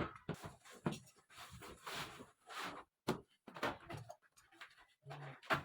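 A run of irregular knocks and clattering handling sounds, a few every second.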